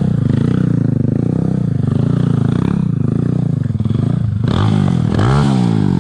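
Small commuter motorcycle engine revving up and down in a steady rhythm, about once a second, as the rider holds it in a circling wheelie. Near the end it gives a sharper rise and fall in revs.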